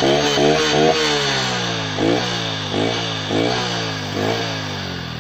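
Honda Dream Yuga 110cc single-cylinder motorcycle engine with a modified exhaust, revved in throttle blips: a quick run of short blips in the first second, then four more revs, each falling back toward idle.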